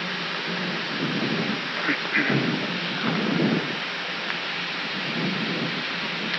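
Steady cockpit background noise of an Airbus A319 taxiing, a constant hiss with low swells between about one and three and a half seconds in.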